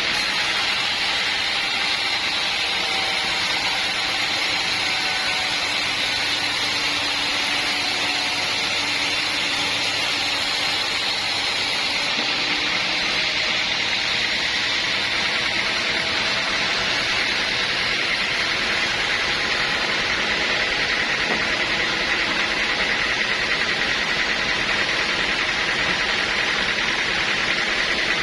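Sawmill saw running steadily: a constant, unbroken mechanical noise, strongest in the upper-middle range, with faint steady whining tones.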